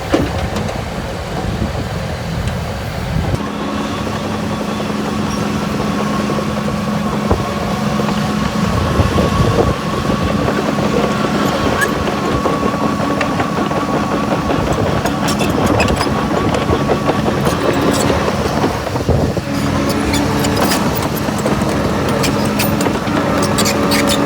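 Heavy diesel earthmoving machine engine running steadily under load, with scattered clanks and rattles in the second half.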